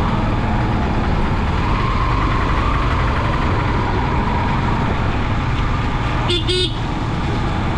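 Loud, steady rushing noise, with a brief horn toot about six seconds in.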